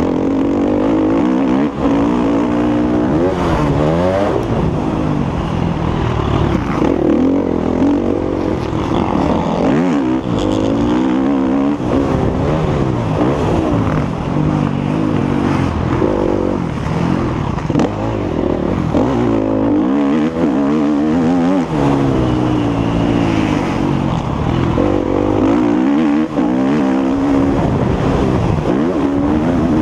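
Motocross bike engine at race pace, its pitch climbing and dropping again and again as the rider accelerates, shifts and backs off.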